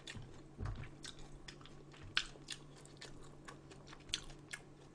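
Close-miked chewing of food: a quick run of small, sharp mouth clicks, with a few louder ones about two seconds in and just after four seconds.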